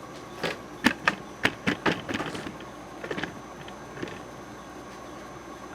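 SMC X-42 42-inch ceiling fan running on its low speed, its bearings quiet, under a steady faint high tone. A string of sharp irregular clicks and knocks comes about half a second to two and a half seconds in, with a few weaker ones a little later.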